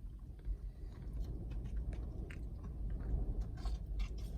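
Strong wind buffeting the microphone with a steady low rumble, broken by scattered sharp crackles and clicks that come more often in the second half.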